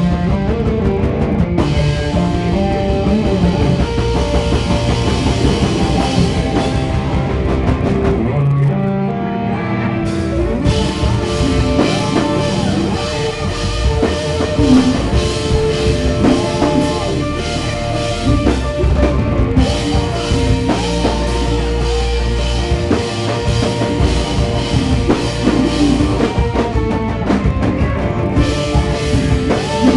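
A rock band playing loudly, with drum kit, cymbals and guitars. The cymbals and high end drop out for about two seconds roughly a third of the way in, then the full band comes back.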